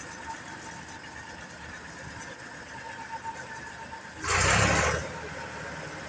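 Fahr M66 combine's engine running steadily at idle, with a loud burst of noise lasting under a second about four seconds in.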